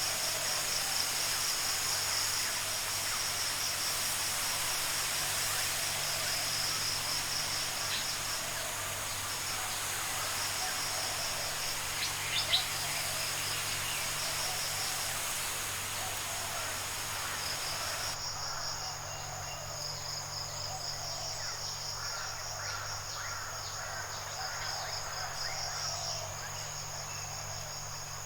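Tropical forest ambience dominated by insects trilling in a steady, fast-pulsing high drone. A background hiss drops away abruptly about two-thirds of the way through, and there is one brief sharp click near the middle.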